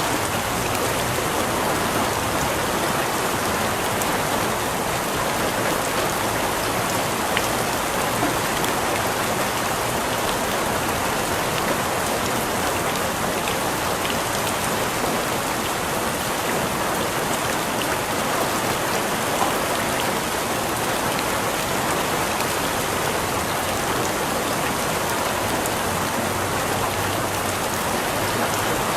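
Steady rain falling, a constant even patter with a few sharper drops here and there.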